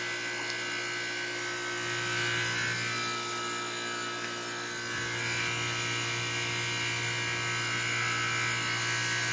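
Goodman air conditioner's compressor running on its own with the condenser fan disconnected: a steady electric hum made of several steady tones, with the coils and refrigerant line running hot.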